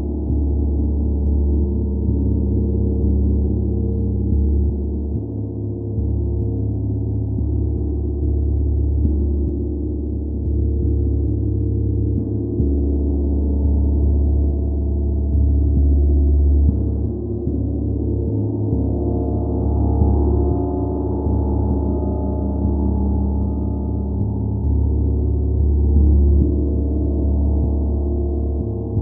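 Large gong played in a continuous wash: a deep, dense, sustained hum of many overlapping tones that swells and ebbs without break, slightly brighter around two-thirds of the way in.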